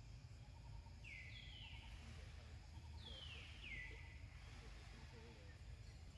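Faint bird calls: two pairs of quick downward-sliding chirps, about a second in and again about three seconds in, over a low background rumble.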